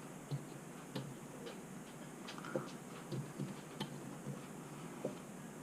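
Light, irregular clicks and taps of a small screw and parts being handled while a screw is tried in the shallow threaded holes of a bilge pump's aluminum casing.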